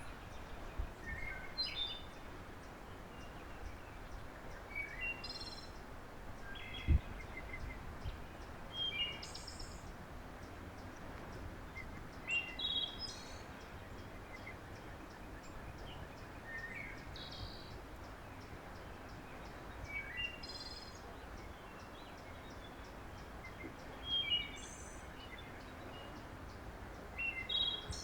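Small birds giving short chirping calls every few seconds over steady low outdoor background noise, with a single dull thump about seven seconds in.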